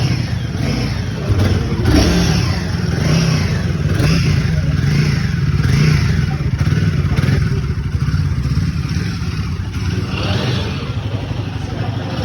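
Royal Enfield Guerrilla 450's single-cylinder engine running through its exhaust, the revs rising and falling several times.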